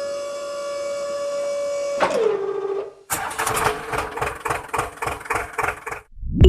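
Small electric motor of a miniature DIY flour mill running with a steady whine. About two seconds in its pitch drops and settles lower, and from about three seconds in a rapid rhythmic clatter runs over the motor's hum.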